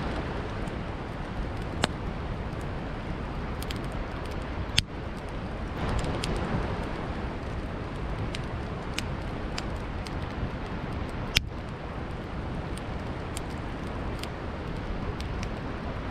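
Campfire crackling, with three loud sharp pops and many faint ticks, over the steady rushing of a flowing river.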